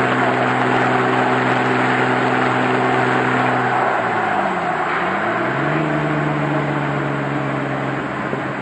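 Jeep Wrangler engine through a Banks Monster after-cat exhaust, a steady drone while driving; about four seconds in the engine note dips and then climbs back to a steady pitch.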